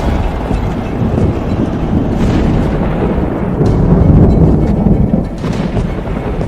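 Dramatic sound effect of a deep, continuous thunder-like rumble that swells about four seconds in, with a few faint cracks over it.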